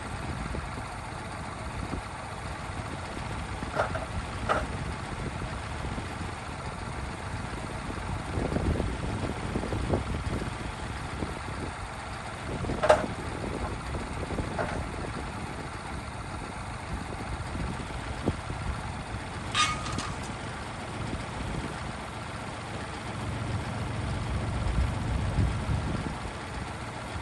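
Kubota tractor engine running steadily, with several sharp knocks and clanks, one of which rings briefly about twenty seconds in. The engine grows louder for a few seconds near the end.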